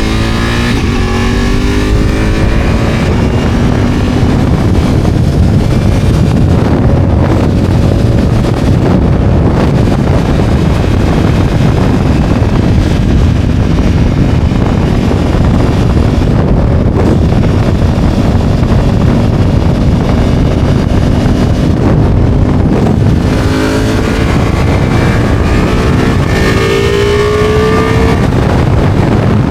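Ducati motorcycle riding fast: heavy wind rush over the microphone, with the engine note climbing as it accelerates near the start and again near the end.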